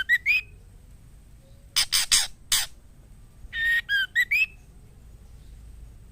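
Female white-rumped shama calling in short bursts: a run of four harsh, rasping notes about two seconds in, then a phrase of a buzzy note followed by short whistled notes rising near 2 kHz. These are the calls of a female in breeding condition, used to stir males into song.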